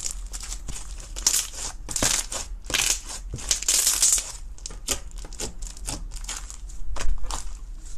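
Dense, irregular crunching and crackling of something brittle being crushed, thickest about three to four seconds in.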